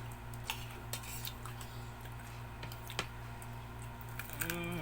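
Scattered light clicks and clinks of cutlery and dishes during a meal, over a steady low hum. A voice starts just before the end.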